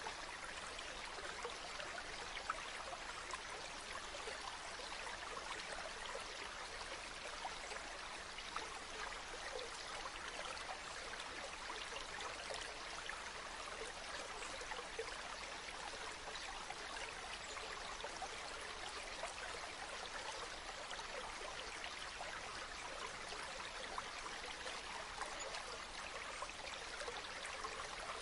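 River water flowing and babbling over stones, a steady, unbroken rush with fine splashing detail.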